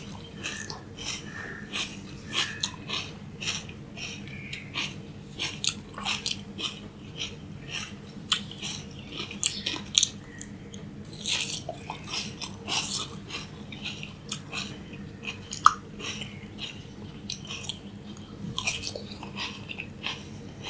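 Close-up crunching and chewing of raw carrot: a steady run of irregular crisp cracks as the pieces are bitten and chewed.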